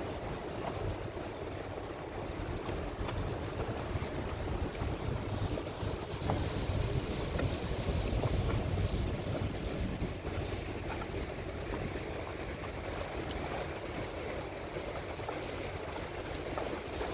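Small tour boat under way on the water: steady wind noise on the microphone over the rumble of the boat and water. A louder hiss comes in briefly about six seconds in.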